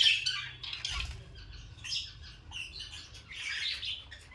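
Small pet birds chirping and squawking in a series of short, high calls, the loudest right at the start.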